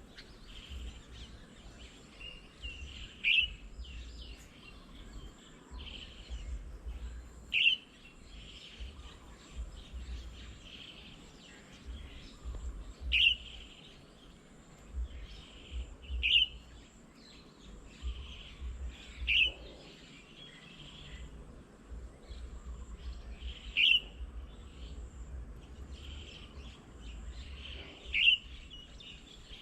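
Birds calling outdoors: one bird gives a short, sharp call every four to five seconds, seven times in all, over softer chirping from other birds.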